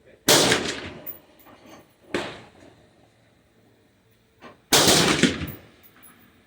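Gunshots with a rolling echo: a loud shot just after the start, a fainter one about two seconds in, and another loud report near five seconds in.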